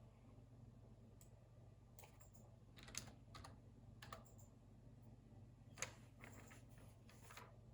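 Computer keyboard typing: scattered keystrokes in a few short, uneven runs, the sharpest clicks about 3 s and 6 s in, over a faint steady low hum.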